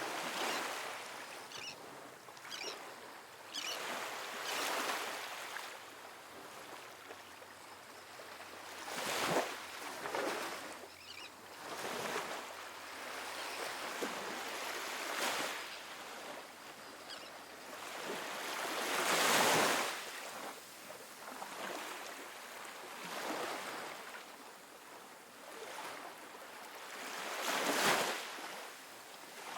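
Calm, small ocean waves breaking and washing up a sandy beach, a soft new wash every few seconds; the loudest swells come about two-thirds of the way through and near the end.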